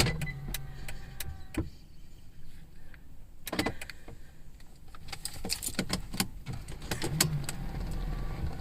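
Scattered clicks and knocks around a 2008 Mercedes-Benz CL 63 AMG with its engine not yet running, with a short electric whir in the first second and again about seven seconds in.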